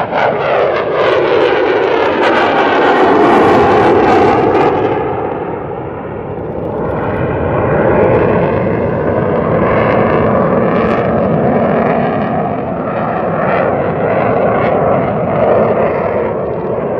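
Loud jet noise from an F-22 Raptor's twin engines as the fighter flies past. Its pitch falls over the first few seconds as it goes by, then a steady rumble carries on.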